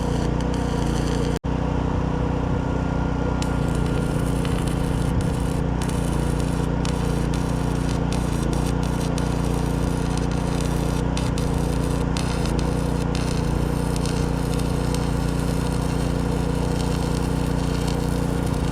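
Stick-welding arc crackling and sizzling steadily from a Chicago Electric 80 amp inverter stick welder, over the steady running of the Briggs & Stratton Storm Responder 6250 portable generator that powers it under load.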